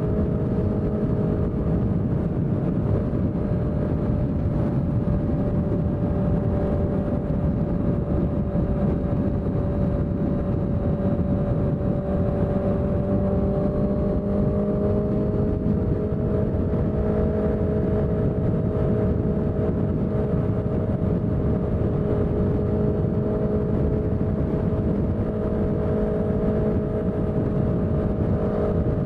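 Honda CBR650F's inline-four engine with a CS Racing aftermarket exhaust, running steadily at near-constant revs, its pitch shifting only slightly about halfway through.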